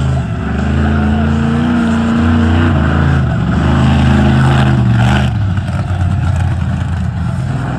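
Monster truck engine revving hard, its pitch climbing and falling as the throttle is worked: it rises early on, holds, drops about two and a half seconds in, climbs again, then falls back a little past five seconds.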